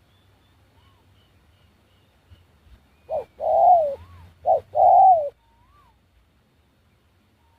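A dove cooing close by: a short note then a longer, falling note, repeated twice about three seconds in, with faint thin whistles of small birds around it.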